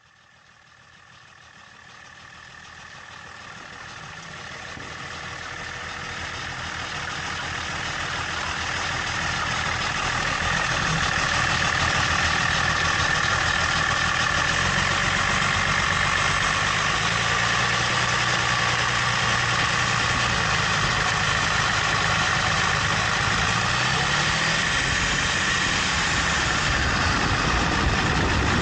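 A car engine running steadily, fading in over the first ten seconds, with its pitch shifting a few times later on.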